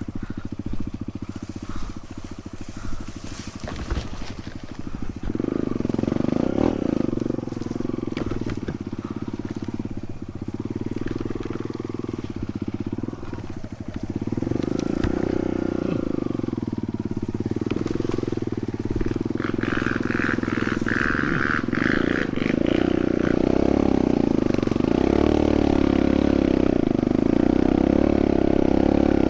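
Trail motorcycle (dirt bike) engine running under load on a rough trail, the revs rising and falling as the rider throttles on and off; it picks up about five seconds in and again midway, and is loudest near the end.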